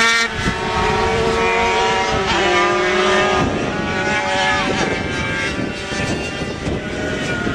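Racing motorcycle engines running at high revs, more than one at once, their pitch dropping in steps a couple of times as the bikes shift or slow.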